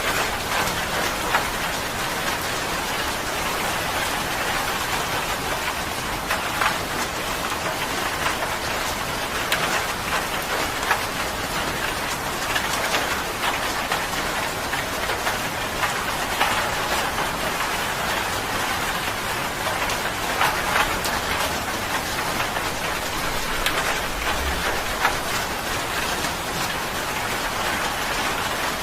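Steady rain falling, a dense even hiss with many individual drops ticking sharply on a surface throughout.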